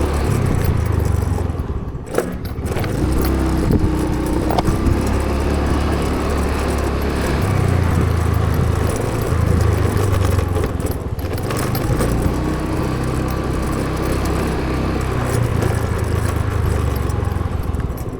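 Motor vehicle on the move, a steady low rumble with road noise.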